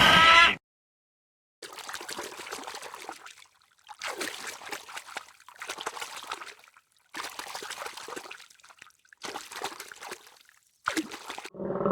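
A brief pitched animal call cuts off about half a second in. After a short silence come several short, abruptly cut stretches of trickling, splashing water.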